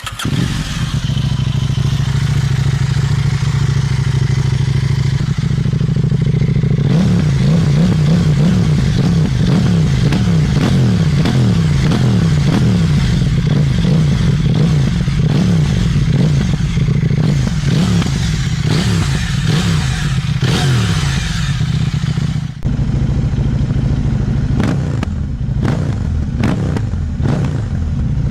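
KTM Duke 790's parallel-twin engine running through an aftermarket exhaust: a steady note at first, then about seven seconds in, repeated rises in pitch as it revs and pulls through the gears. After a brief dip past the two-thirds mark the note carries on with a rapid run of sharp cracks near the end.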